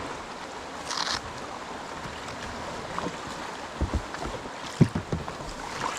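River water running steadily around a kayak, with a splash about a second in and a few dull knocks about four to five seconds in.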